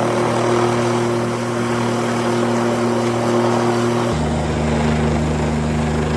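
Helicopter overhead: steady rotor and engine noise with a low droning hum. About four seconds in, the hum drops abruptly to a lower pitch.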